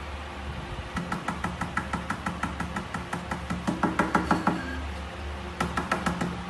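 Rapid, evenly spaced tapping, about seven taps a second, running for over three seconds, then a second short run of taps near the end.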